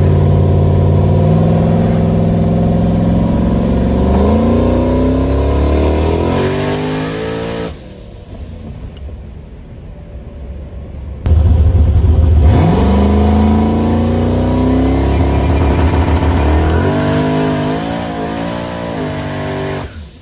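Turbocharged LS V8 in a Fox-body Mustang accelerating hard in two pulls, heard from inside the car. The engine note climbs through the revs with a faint high whistle rising along with it. The first pull is cut off about two-thirds of the way in by a quieter stretch; the second starts abruptly and turns uneven near the end before dropping away.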